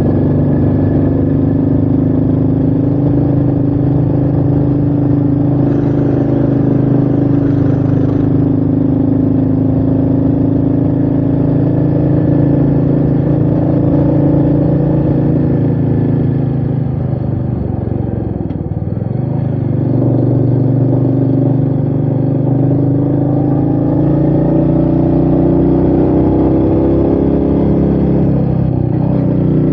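Royal Enfield Meteor 350's single-cylinder engine running steadily under way. Around two-thirds of the way through, the engine note drops as the bike slows, then climbs again as it accelerates away.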